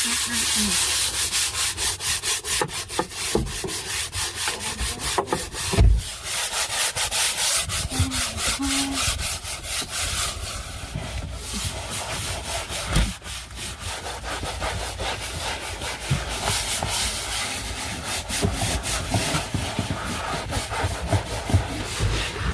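Stiff brush scrubbing a floor in rapid back-and-forth strokes, a continuous scratchy rasping, with a louder knock about six seconds in.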